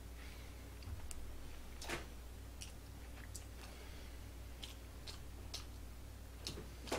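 A person chewing fried chicken close to the microphone: faint mouth sounds and scattered small smacking clicks over a steady low hum, the clearest click about two seconds in.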